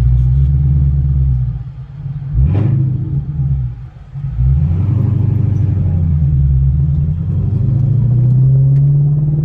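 Ford Shelby GT350's 5.2-litre V8 running with a low, even rumble. About two seconds in it dips, gives one short rev blip, and falls away near four seconds before settling back into a steady run that rises a little near the end.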